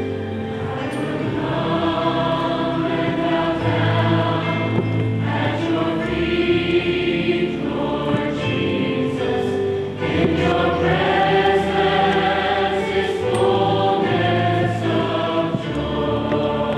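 A choir singing a sustained piece, with held chords changing every second or so over steady low bass notes.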